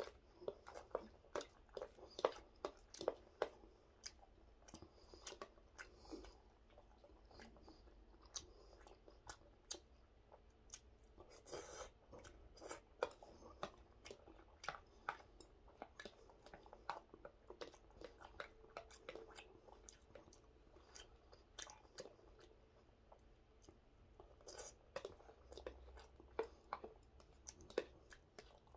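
Close chewing and mouth sounds of a man eating, with many irregular short clicks.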